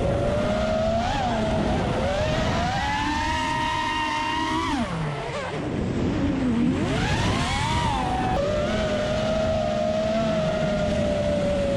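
FPV racing quadcopter's motors whining, the pitch rising and falling with the throttle. About five seconds in the pitch drops sharply and swoops back up, then holds steady.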